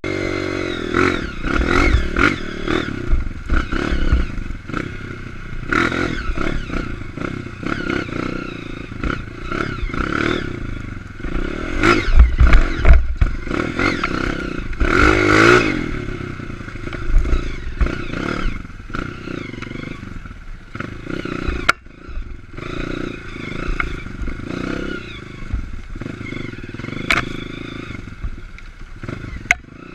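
Dirt bike engine revving up and down as the bike is ridden over rough trail, with rattles and knocks from the bike throughout.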